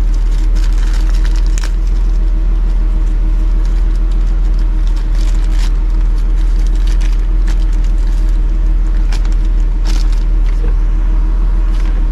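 A steady, loud low hum with a constant pitched drone runs throughout, under scattered small clicks and rustles of a part and its packaging being handled.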